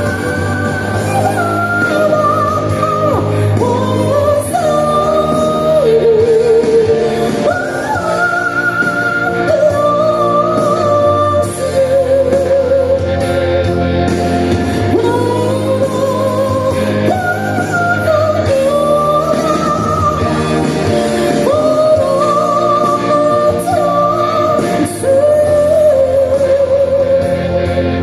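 Live band music with a singer carrying a held, wavering melody over a steady bass line.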